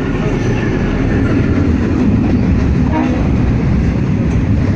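BL-class diesel-electric locomotive and its container freight wagons passing close at speed: a loud, steady rumble of engine, wheels and rails as the wagons go by.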